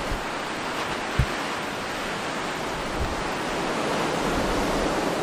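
Strong blizzard wind blowing steadily, with short low thumps of gusts buffeting the microphone about a second in and again about three seconds in.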